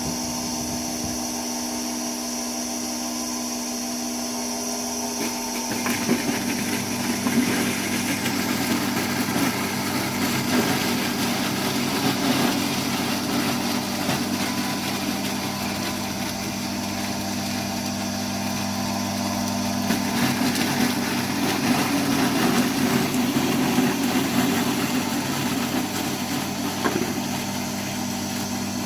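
Electric Italian apple mill running with a steady motor hum. About five seconds in, apples go through its sharp blades and are milled into pomace, adding an uneven grinding, crunching noise over the motor.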